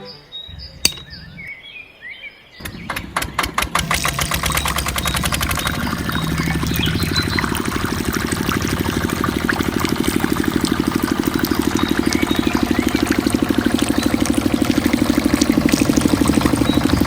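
Small engine starting up about two and a half seconds in, its beats quickening, then running steadily.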